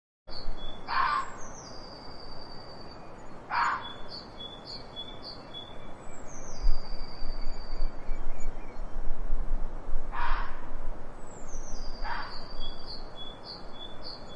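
A fox calling four times in short, sharp cries, in two pairs: two a few seconds apart near the start, two more in the second half. Birds chirp high behind it throughout.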